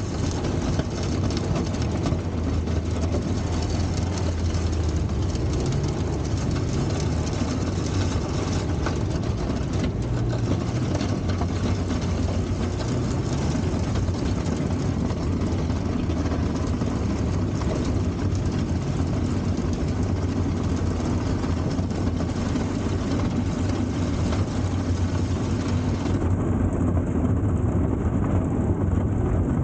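A 1960s Kalmar baggage tractor's Volvo four-cylinder gasoline engine running steadily, its note rising briefly a few times.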